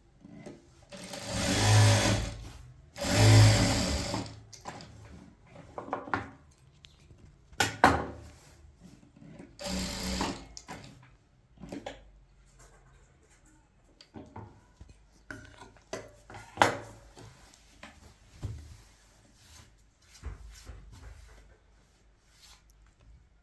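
A small motor-driven machine runs in two short bursts of about a second each, followed by scattered clicks and knocks.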